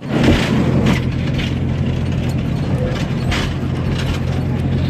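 Bus engine drone heard from on board, with the body and fittings rattling and clattering now and then.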